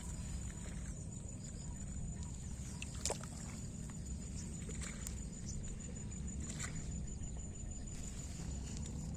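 Outdoor field ambience: a steady low rumble with a constant thin high-pitched tone, and a few faint clicks or rustles scattered through.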